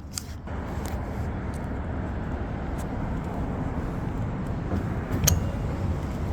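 Steady low rumble of road and wind noise that comes up about half a second in and holds, with a few light clicks and one sharper click about five seconds in.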